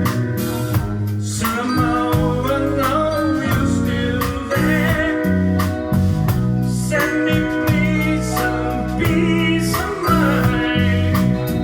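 Live band playing a song: a lead vocal sung over electric guitar, bass and drums with cymbal hits.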